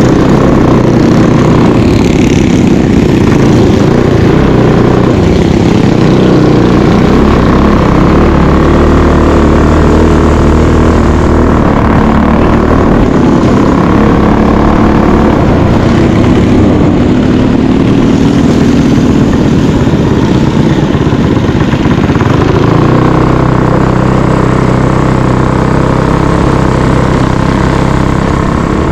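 Mini bike engine running under throttle, its pitch rising and falling.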